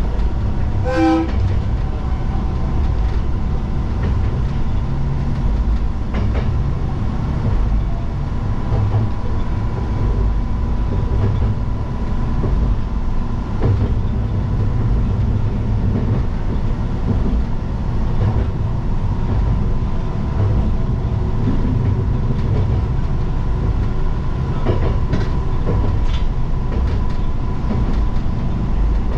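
Diesel train running along the line, a steady low rumble with a few scattered rail-joint clicks, and a short pitched tone about a second in.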